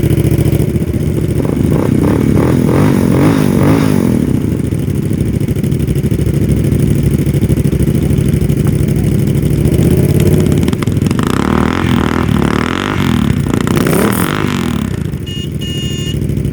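Motorcycle engines running, revved up and down a few times.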